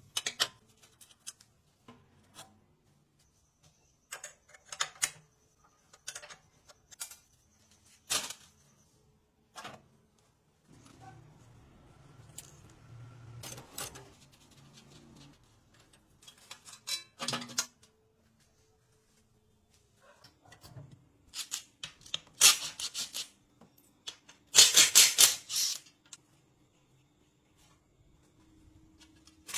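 Hand tools and small metal parts clicking and clattering at irregular intervals, with a louder rattling stretch of a few seconds near the end.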